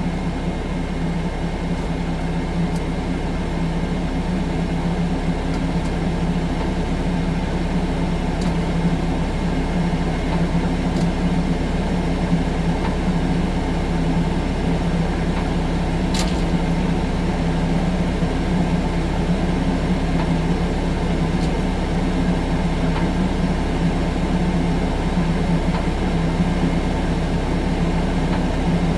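Compact track loader's diesel engine running steadily at a constant speed, with a strong low hum.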